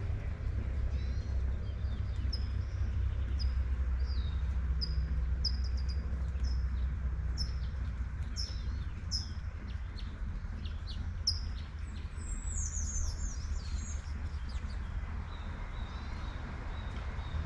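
Small songbird chirping: a short, high, downward-sweeping chirp repeated about once a second, then a quick run of higher twittering notes about two-thirds of the way in. Underneath are a steady low rumble and the even hiss of light rain.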